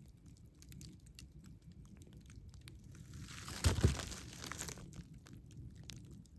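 Campfire burning with scattered crackles and pops over a low rumble. Around the middle a louder crunching, rushing swell builds, peaks a little under four seconds in, and fades over about a second.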